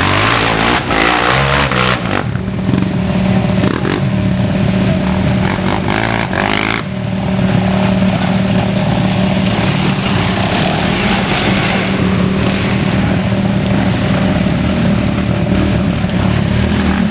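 Motor vehicle engine running loudly. Its pitch shifts in the first couple of seconds, then settles into a steady drone.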